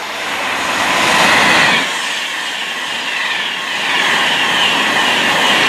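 Class 390 Pendolino electric express train passing through a station at speed: a rush of wheel-on-rail and air noise that peaks about a second and a half in, then holds with a repeating beat as the coaches go by.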